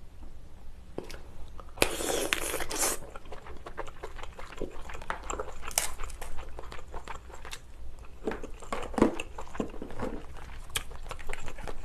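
Cooked king crab legs being handled and pulled apart, a steady run of small crackling snaps and clicks of shell with a louder crunching rasp about two seconds in, along with chewing.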